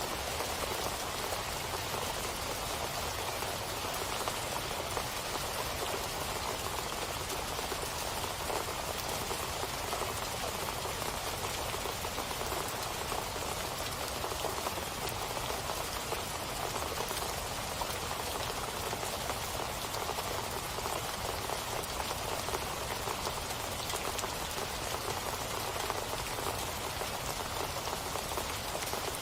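Steady rain falling, a dense even patter of drops with no letting up.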